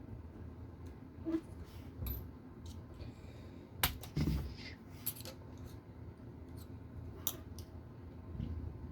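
Scattered small clicks and taps from handling plastic RC car parts, screws and a small screwdriver, the sharpest just under four seconds in.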